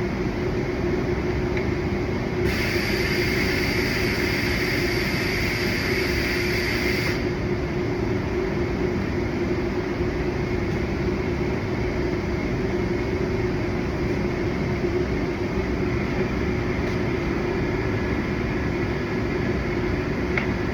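A steady mechanical drone with a constant low hum, such as a fan or ventilation unit running. A hiss joins it about two seconds in and stops about five seconds later.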